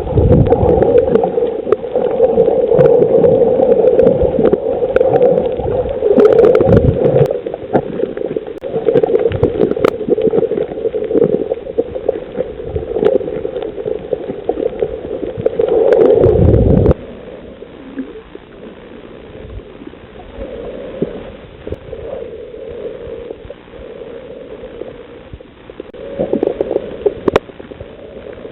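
Muffled underwater sound of water gurgling and churning, with low thumps and a few sharp clicks. It drops suddenly to a much quieter gurgle about two-thirds of the way through.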